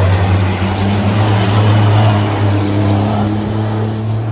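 Racing trucks' big turbocharged diesel engines running flat out on track: a loud, steady deep engine note with a broad rush of noise above it.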